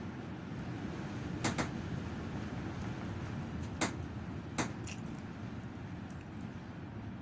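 Steady low rumble of a moving vehicle, broken by five sharp knocks: a close pair about a second and a half in, one near the middle, and two more shortly after.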